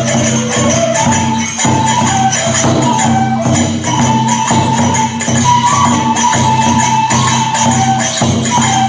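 Kagura festival music: a high melody in stepped notes, over regular drum beats and jingling small hand cymbals.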